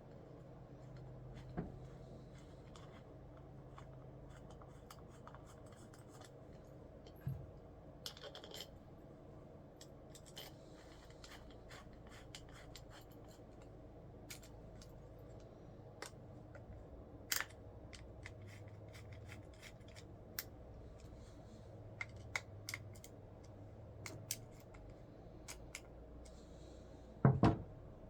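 Scattered light clicks, taps and rubbing from small parts and hand tools being handled, with a few sharper ticks and a cluster of louder knocks near the end.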